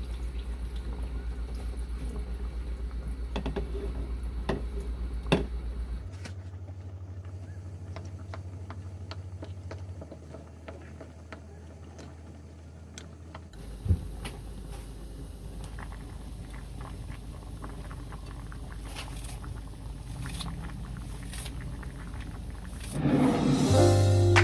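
Steady low hum of a vehicle in motion, heard from inside, changing in pitch and level in a few abrupt steps, with occasional light clicks. Background music comes in near the end.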